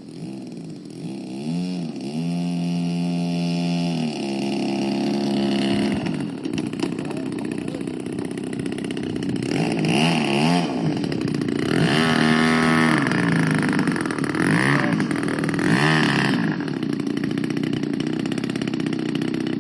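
Single-cylinder DLE 30 two-stroke gasoline engine of a radio-controlled P-51 model aircraft, running through a Keleo exhaust. It revs up and down repeatedly, its pitch rising and falling in arches, and holds a steady note for a couple of seconds near the start.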